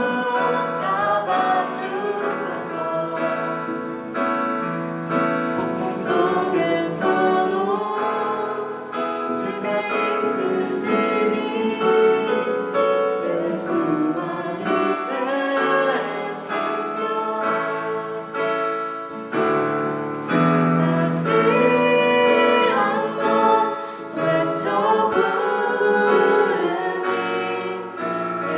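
A group of voices singing a praise song together with piano accompaniment.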